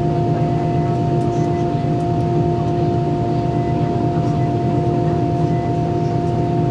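Airbus A320 cabin noise on the ground after landing: a steady low hum with constant whining tones on top, unchanging throughout.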